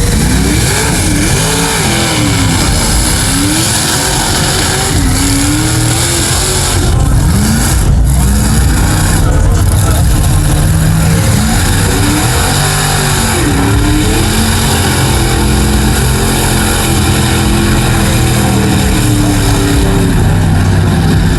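Mega truck's big engine revving hard and repeatedly, its pitch rising and falling as it pushes through a deep mud hole.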